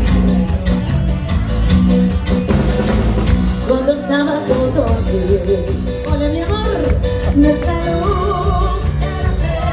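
Live band playing upbeat Latin American dance music with a steady drum beat and bass; a voice comes in singing about four seconds in.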